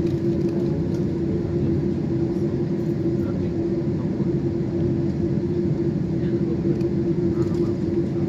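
Steady cabin noise inside a Boeing 747: a low rumble with a constant hum.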